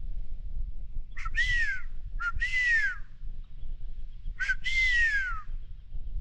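Bald eagle calling three times, each call a short sharp note followed by a high whistle that slides downward, over a steady low rumble.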